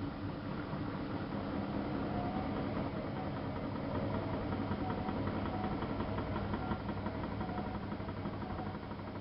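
Miele Softtronic W3657 washing machine running, a steady motor hum with a faint wavering tone above it.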